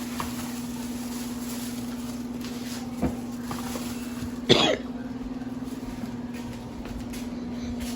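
A person coughs once about halfway through, over a steady low hum, with a faint knock just before.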